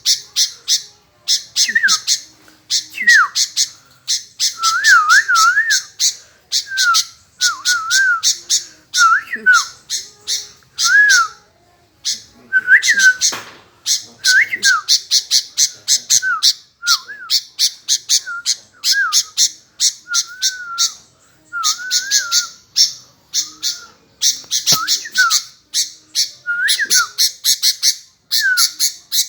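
Sooty-headed bulbul (kutilang) singing continuously: rapid runs of harsh, chattering notes alternate with short, warbling whistled phrases, over and over.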